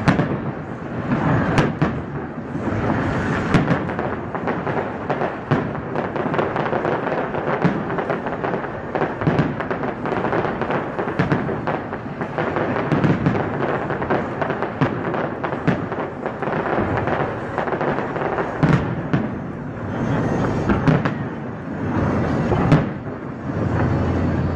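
Aerial firework shells bursting in a dense, continuous barrage, many rapid bangs overlapping with no pause.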